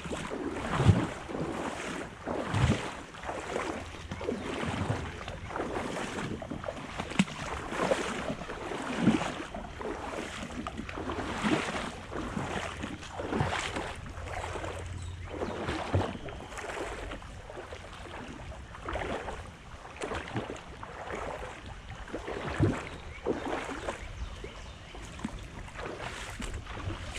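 Water splashing and sloshing in irregular steps, one every second or two, as someone wades along a shallow creek, with a steady rush of moving water and some wind on the microphone.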